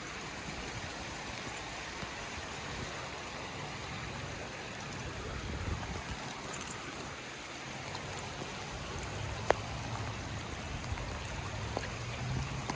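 Steady rain, an even hiss, with one sharp click about three-quarters of the way through.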